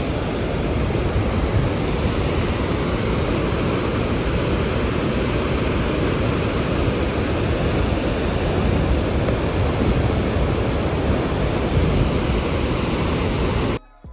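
Steady roar of the Augrabies waterfall, a continuous rushing noise heavy in the low end, cutting off suddenly near the end.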